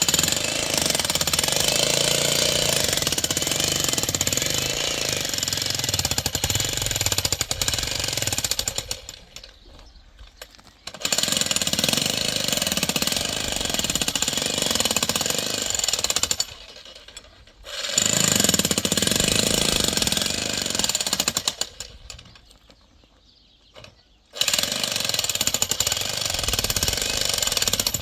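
A jackhammer-type power hammer runs in four long bursts, with short pauses between them.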